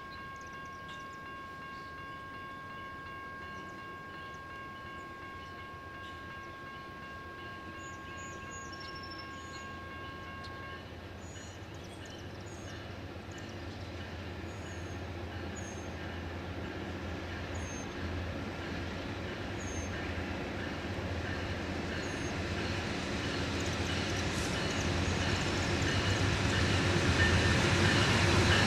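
Amtrak Auto Train approaching behind GE P40 diesel locomotives: a low diesel rumble that grows steadily louder. A steady high tone holds for about the first ten seconds, then stops.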